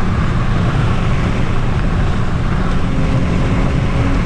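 Car at freeway speed: a loud, steady rumble of road and wind noise. A faint steady hum comes in about three seconds in.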